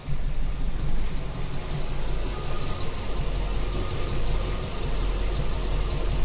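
1993 Chevrolet Corvette C4's V8 idling at low rpm with a steady, evenly spaced ticking over the engine note; the cause of the tick is unknown to the owner.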